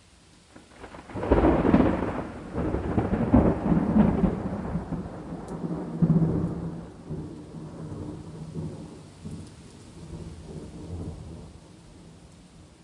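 A thunderclap breaks about a second in and rolls on in several loud cracks, then rumbles and slowly dies away over faint, steady rain.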